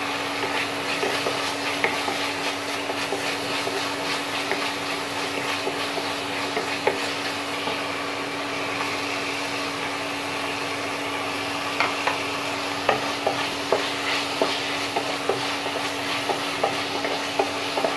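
Minced beef sizzling in a non-stick frying pan as chopped tomato and capsicum are tipped in and stirred with a wooden spatula. From about twelve seconds in, the spatula clicks and scrapes against the pan more often. A steady hum runs underneath.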